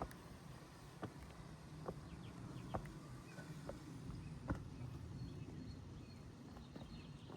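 Footsteps walking at an even pace, about one step a second, over a steady low background rush, with a few faint bird chirps.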